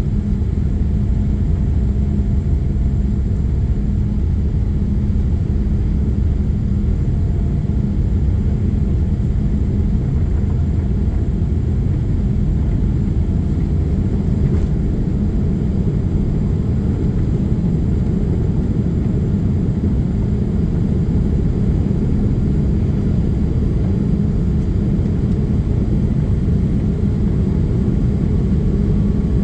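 Boeing 787-8 jet engines and airflow heard from inside the passenger cabin during takeoff: a loud, steady deep rumble with a constant low hum.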